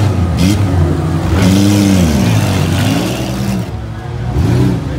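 Several demolition derby cars' six-cylinder engines revving up and dropping back again and again as they back up and charge, with a sharp bang of a hit about half a second in.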